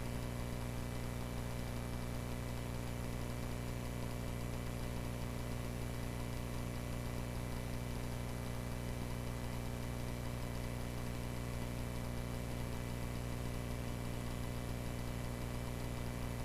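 Cessna 140A's light-aircraft piston engine droning at steady power in the cockpit.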